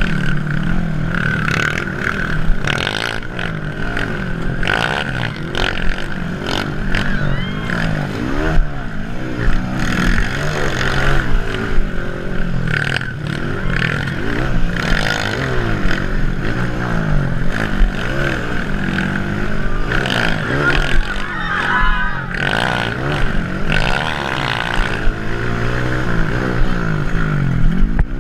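Several motocross bike engines revving hard and backing off in turn, their pitches sweeping up and down and overlapping throughout.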